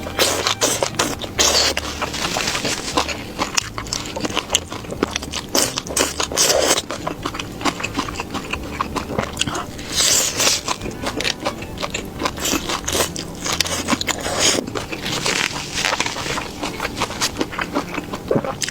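Close-miked crunchy biting and chewing of fried food, with many irregular crackles and scraping clicks.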